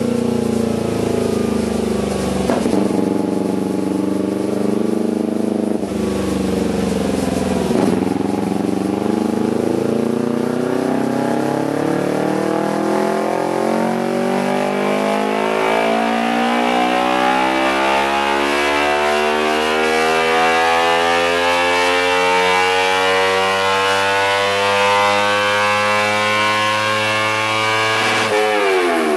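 2011 Kawasaki Ninja 250R's parallel-twin engine running through an aftermarket performance exhaust. It shifts up through the gears three times in the first eight seconds, then revs climb steadily in one long pull for about twenty seconds before dropping off sharply near the end.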